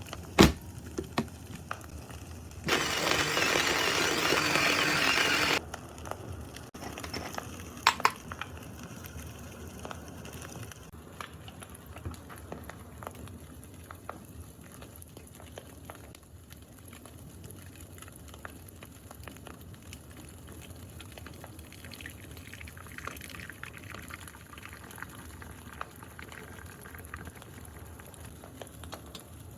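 A crackling campfire sound with many fine pops runs under coffee being made by hand. A loud rushing noise lasts about three seconds near the start, a couple of sharp clicks follow, and liquid is poured for drip brewing.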